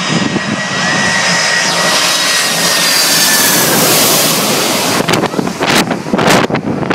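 A Boeing 747's jet engines roaring with a high whine as the airliner passes low overhead on final approach to land. About five seconds in the roar breaks up into gusts buffeting the microphone.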